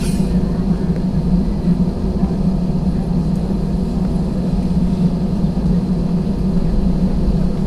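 Airbus A320 engines running, heard inside the passenger cabin as a steady drone with a low rumble.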